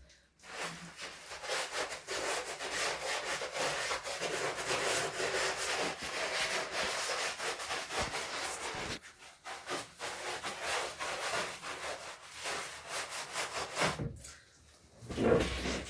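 Rapid back-and-forth scrubbing, a cloth rubbed hard against a surface in quick even strokes, with a brief break about nine seconds in and stopping about fourteen seconds in.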